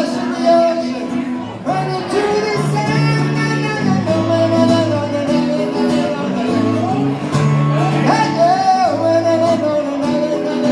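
Live acoustic music: an acoustic guitar playing chords under a held melody line that slides between long notes.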